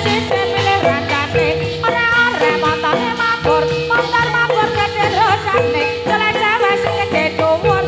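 Javanese gamelan-style music accompanying a gedruk dance: a melody that bends in pitch over a long held note, with a jingling rattle.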